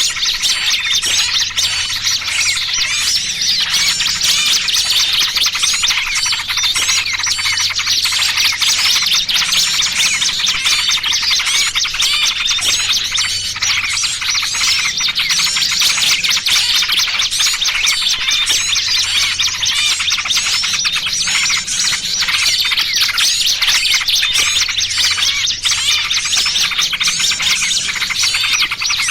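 Dense, unbroken chorus of many small birds chirping and chattering at once, with quick high twittering notes: a bird-trapping lure mix of noisy small-bird calls and the distress calls of a caught bird. A faint low hum swells about every two seconds underneath.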